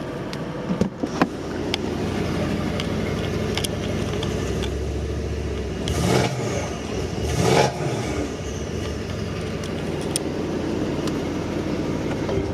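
A Mercedes-AMG C63 S's M177 4.0-litre twin-turbo V8, fitted with aftermarket MBH downpipes, running at idle. The throttle is blipped twice, about six and seven and a half seconds in, each rev rising and falling quickly. A few light clicks come about a second in.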